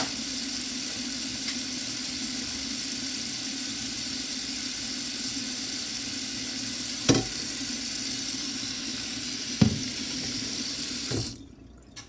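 Cold water tap running steadily into a sink, with two short knocks about seven and nine and a half seconds in. The water is shut off suddenly near the end.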